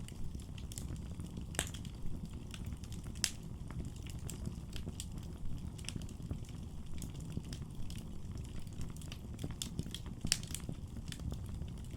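Wood fire burning in a fireplace: a steady low rumble of the flames with irregular crackles and sharp pops, a few pops louder than the rest.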